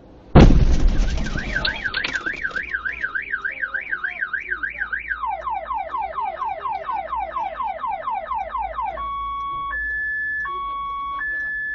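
A sudden loud crash of a vehicle collision, then a car alarm going off. The alarm cycles from a fast up-and-down wail, about two and a half swings a second, to quick falling sweeps, then about nine seconds in to a slow alternation of two steady tones.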